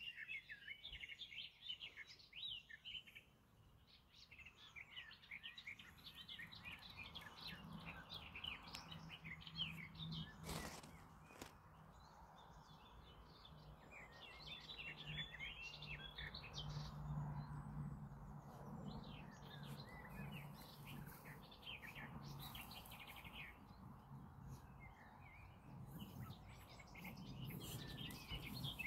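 Small birds singing and chirping in many short, quick calls, faint. A low steady hum sits beneath them through most of the middle, and there is a single sharp knock about ten seconds in.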